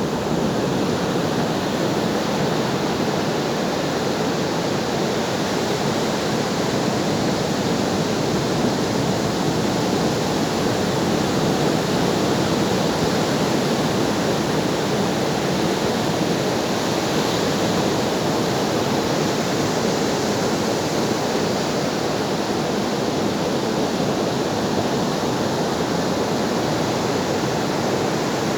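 Ocean waves breaking in a steady, continuous wash of surf, with no single breaker standing out.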